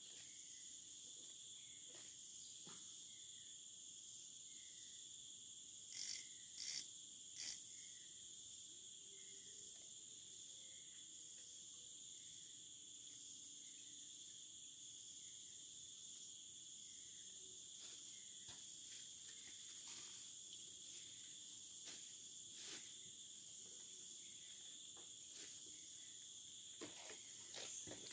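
Steady chorus of forest insects, crickets or cicada-like, made of several high, unbroken tones, with a faint chirp repeating about once a second. Three short, louder sounds come close together about six seconds in.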